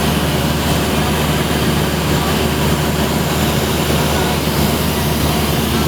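Steady drone of a small propeller plane's engine and airframe noise, heard from inside the cabin on the approach to land.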